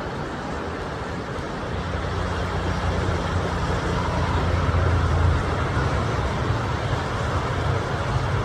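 A road vehicle passing: a low engine and tyre rumble swells over a few seconds and fades, over a steady rushing background.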